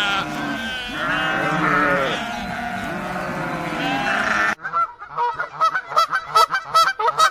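Several sheep or goats bleating at once in overlapping, quavering calls; about four and a half seconds in it cuts abruptly to geese honking in quick repeated calls.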